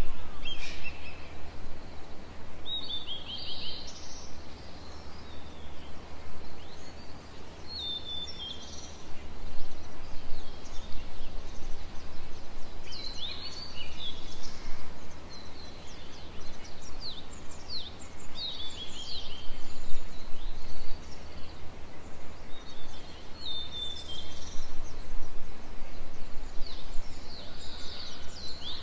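Wild birds calling: short high chirping phrases and quick trills come in groups every few seconds. Under them is a steady low background rumble.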